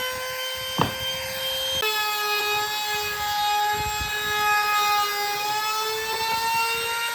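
Electric power tool motor running with a steady high whine. About two seconds in, the pitch drops as the tool takes load in the wood, then slowly climbs back, with a single click shortly before.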